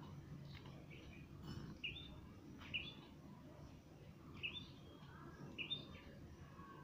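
A small bird chirps faintly, a short call that jumps up in pitch, repeated about five times at intervals of roughly a second, over a low steady hum.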